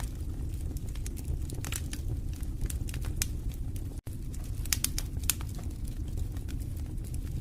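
Fireplace fire crackling: irregular sharp pops and snaps over a steady low rumble of the flames, with a split-second dropout about four seconds in.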